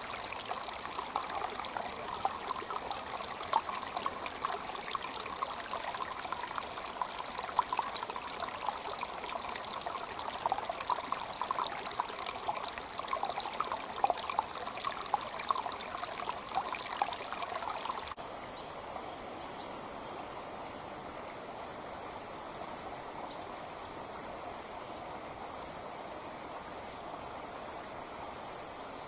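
Creek water trickling and splashing over stones. About 18 seconds in it switches abruptly to a quieter, smoother flow.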